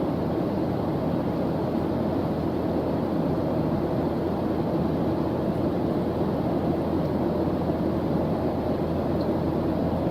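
Steady white-noise background track: an even, unbroken hiss-like rumble with most of its weight low down.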